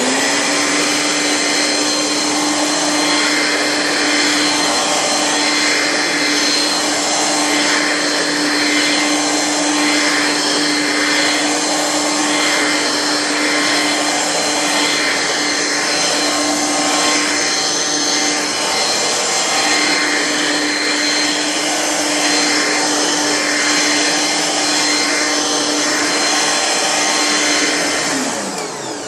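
Singer 6.5-amp upright vacuum cleaner switched on and running, its motor giving a steady hum over a loud rush of air. Near the end it is switched off and the hum falls in pitch as the motor winds down.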